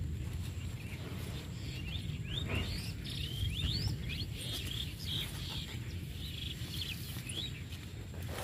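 Small birds chirping, a quick run of short rising chirps over a low steady rumble of outdoor noise, with a faint steady high whine.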